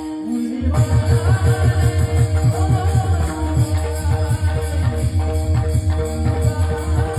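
Kirtan bhajan music: a singer over sustained keyboard (harmonium) tones, with a pakhawaj drum beating a quick steady rhythm and jingling cymbals. The drum pauses briefly and comes back in under a second in.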